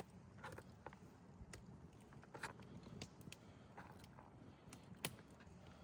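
Near silence with a few faint, scattered clicks and taps of food and utensils being handled while taco toppings are added. The sharpest tap comes about five seconds in.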